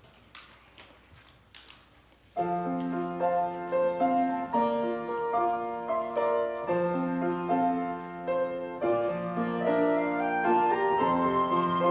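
A few faint clicks, then about two seconds in, piano or keyboard music starts abruptly and plays on as a gentle melody over held chords.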